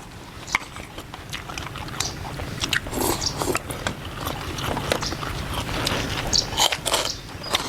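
A person eating close to the microphone: repeated biting and chewing sounds, with sharp wet clicks and smacks scattered through.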